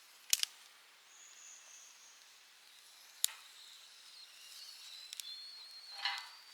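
Wood fire crackling, with a few sharp pops spread through it and a louder snap near the end. A thin, high, wavering whistle sounds through the second half.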